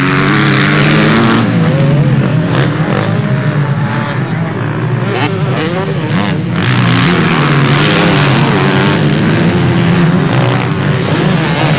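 Several motocross motorcycles racing on the track, their engines revving up and down over one another as they accelerate and shift, with a slight lull about halfway through.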